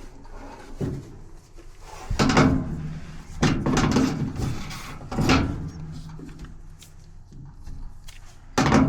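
A series of about five clunks and knocks, each with a short low ringing after it.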